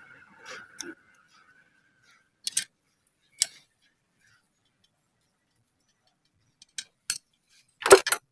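A few separate sharp clinks and knocks of metal parts or tools being handled, spaced out with pauses between them; the loudest pair comes near the end. No engine is running.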